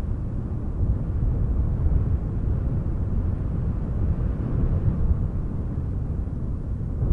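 Strong, gusty wind buffeting the microphone: a low, uneven rumble that swells and eases.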